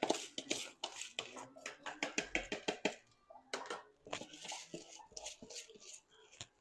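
Rice being rinsed by hand, the grains rubbed and swished in water, making quick runs of gritty rattling strokes with a short pause about three seconds in.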